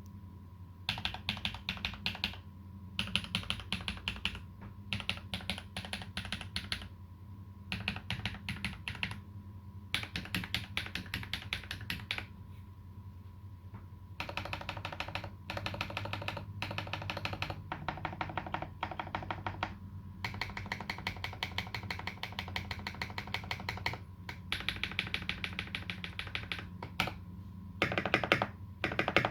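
Typing on a TX EO87 87-key mechanical keyboard with lubed Holy Panda tactile switches, GMK Dolch keycaps and tuned Cherry screw-in stabilizers. The keystrokes come in short bursts with brief pauses between them, with a faster, more even run about two-thirds of the way through.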